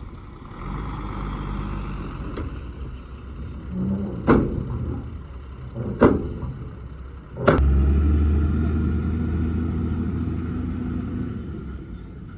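A heavy vehicle's engine running, with three loud bangs about a second and a half apart during truck loading; right after the third bang a strong steady low hum sets in and slowly fades.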